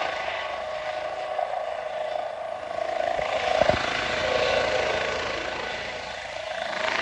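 Helicopter's turbine and rotor running steadily, the sound swelling and fading gently, with a brief knock about halfway.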